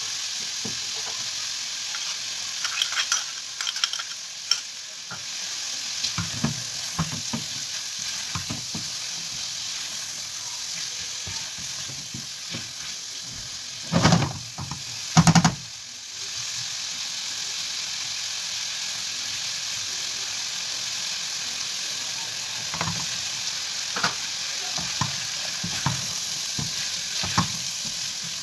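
Chicken livers frying in a pan, a steady sizzle, while a wooden spoon stirs and scrapes through them with small clicks. About halfway through, two louder knocks.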